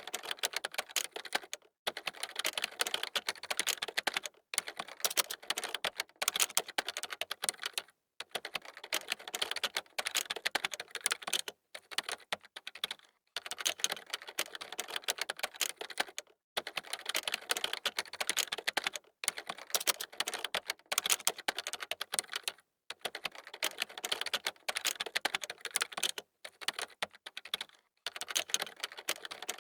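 Computer keyboard typing: fast, dense runs of key clicks broken by brief pauses every second or two.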